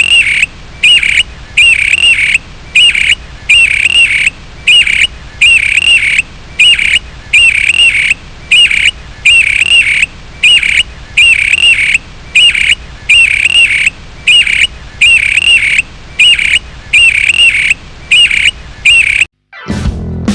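Blackbird call: a short, high, wavering chirp repeated over and over at an even pace, about once a second, until it stops shortly before the end.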